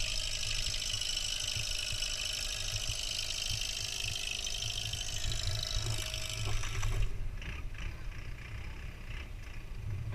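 Boat engine running: a low rumble with a loud high-pitched whine over it. The whine cuts off abruptly about seven seconds in, leaving the low rumble.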